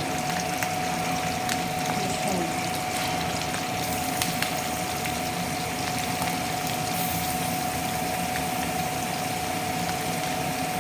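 Chicken curry cooking in a pan, a steady sizzling hiss with a few light clicks and a faint steady tone under it.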